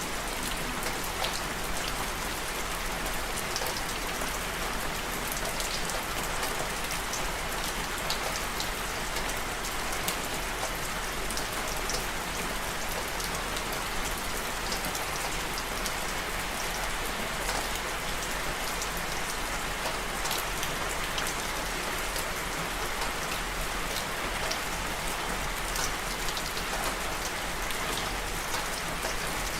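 Steady rainfall, a dense even hiss of rain with scattered distinct drops ticking on a surface.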